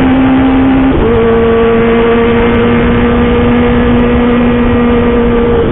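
Kawasaki ZX-25R's 250 cc inline-four engine running loud at high, steady revs through a home-made aftermarket racing exhaust, its pitch jumping to a new steady note about a second in.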